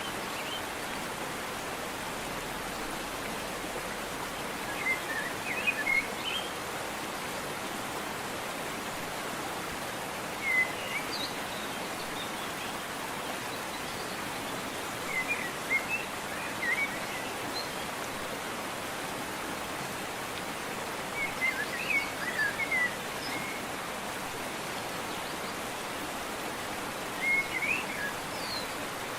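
Steady rush of a waterfall with short bird chirp phrases breaking through about every five or six seconds.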